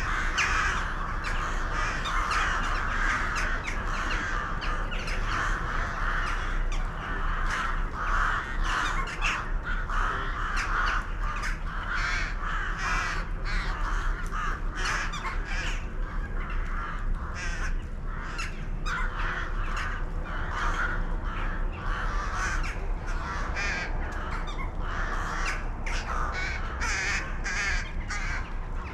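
A flock of birds calling together, many overlapping calls with no break.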